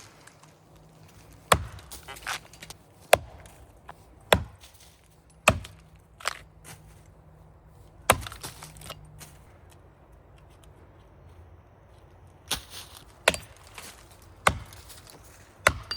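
An axe chopping into the trunk of a big maple tree, about nine sharp strikes roughly a second or so apart, with a pause of about four seconds midway. The axe is cutting the front of the trunk open to build the felling undercut.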